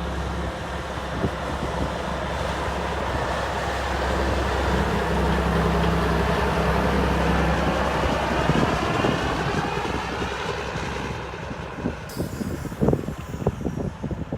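The diesel engine of a 1985 Mack Super Liner dump truck runs steadily as the truck moves, growing louder toward the middle and then fading away. Near the end come a hiss and a few sharp knocks.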